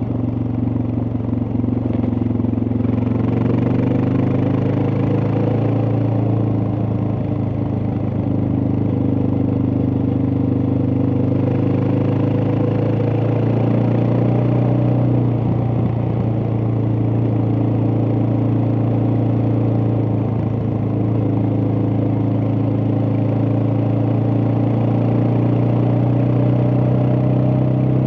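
Suzuki DR650's single-cylinder four-stroke engine running steadily while the motorcycle is ridden. Its pitch shifts slightly about two seconds in, then holds.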